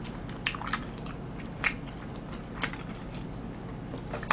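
A person chewing a mouthful of soupy tteokbokki with the mouth close to the microphone: soft wet chewing with a few sharp smacks.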